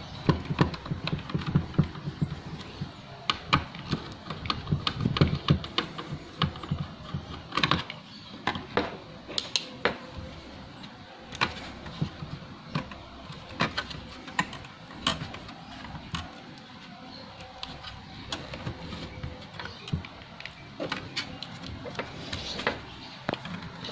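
Irregular clicks and knocks of small plastic and metal laptop parts being handled and taken apart, over a low handling rumble that is heaviest in the first several seconds.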